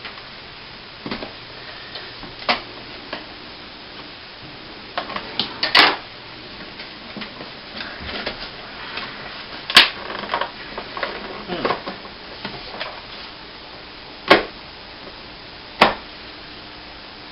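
Packaging and parts of a boxed toy quadcopter being handled: irregular clicks, taps and knocks with some rustling, and a few sharper clicks several seconds apart.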